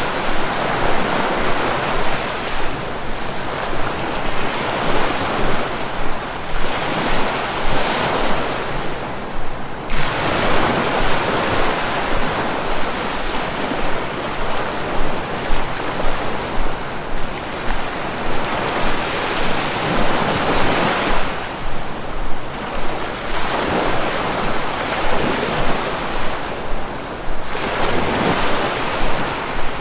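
Sea waves breaking and washing in a continuous rush that swells and eases every few seconds.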